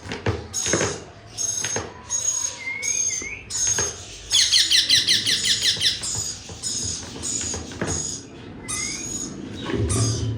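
Parrot calling: a steady series of short, high calls, a little more than one a second. About four seconds in comes a rapid chattering run lasting nearly two seconds.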